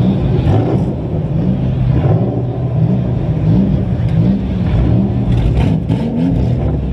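Compact demolition derby car's engine, heard from inside the car, revving up and falling back again and again, with a brief clatter about five seconds in.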